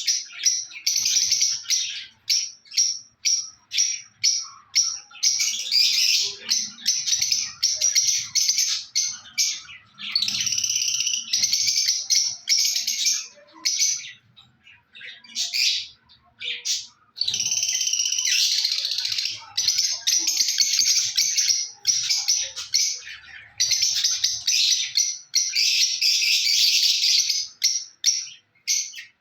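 Lovebirds calling: quick trains of short, high-pitched chirps alternating with stretches of dense, continuous shrill chatter a few seconds long.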